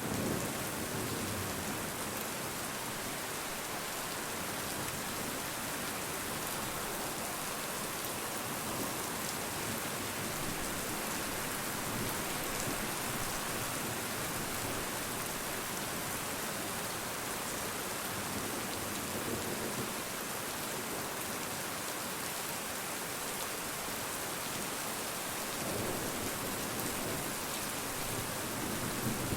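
Rain falling steadily, a dense even hiss of many drops on surfaces, holding at a constant level.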